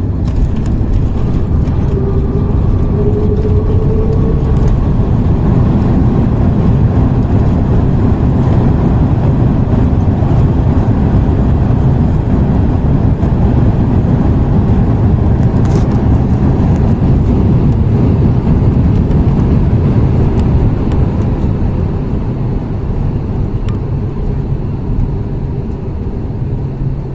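Loud, steady rumble inside the cabin of an Airbus A330-300 on its landing roll, engine and runway noise together, easing off near the end as the jet slows. A faint rising whine sits under it a couple of seconds in.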